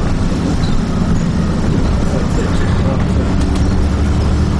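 Dennis Trident double-decker bus running steadily, heard from inside the passenger cabin: a low engine drone with road noise. There is a faint click about three and a half seconds in.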